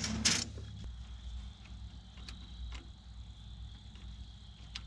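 A few light clicks and taps from hand work on a bulldozer hydraulic hose as it is fed into place, spread out over several seconds above a low steady hum.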